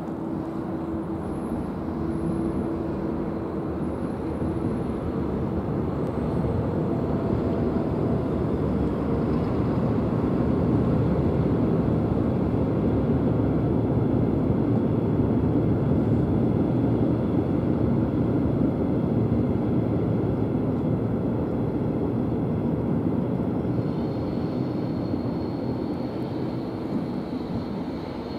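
metronom double-deck regional train crossing a steel truss railway bridge: a steady rumble that swells to its loudest about halfway through and eases off a little after. A thin high tone sets in near the end.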